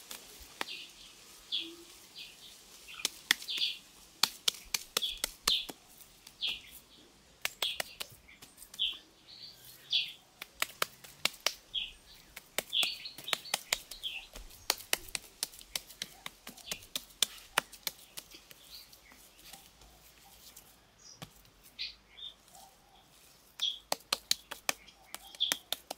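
A bird repeating short high chirps, roughly once a second. Under them run many sharp clicks and taps from hands working wet mud onto a stick-framed wall.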